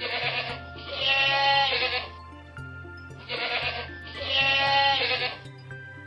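A lamb bleating: two pairs of calls, each a short rough bleat followed by a longer, wavering one, over light background music.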